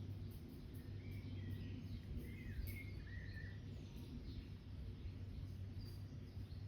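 Small songbirds giving short chirps and twitters, mostly in the first half, over a steady low hum of background noise, with faint scattered clicks.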